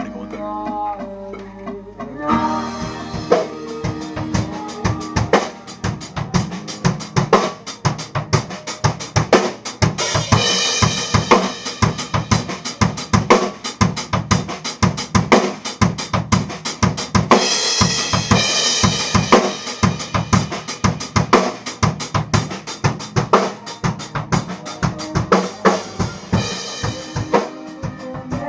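Drum kit playing a rock groove along to a guitar track, with kick and snare hits and cymbals. The drums come in about two seconds in, after guitar alone, and the cymbals swell twice.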